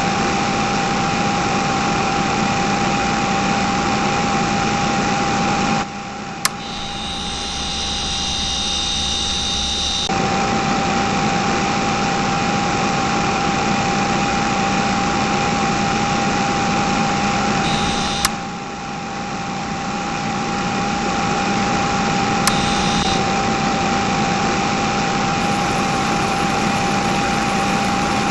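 Small motor of a homemade mini tractor running steadily with a constant high whine over a low hum, dipping briefly with a click about six seconds in and again about eighteen seconds in.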